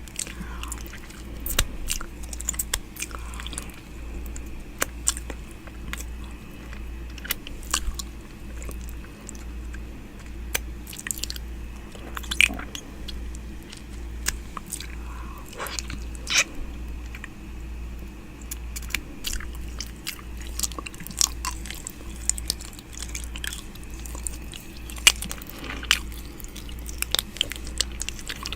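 Close-up ASMR 'ear eating' mouth sounds pressed against a binaural microphone's ear: irregular wet clicks and smacks, with a few louder ones, over a low, evenly pulsing hum.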